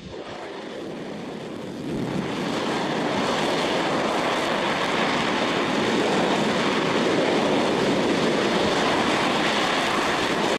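Hydrogen-oxygen rocket engine firing on a test stand: a dense, steady roar that swells over the first two seconds, holds, and cuts off abruptly near the end.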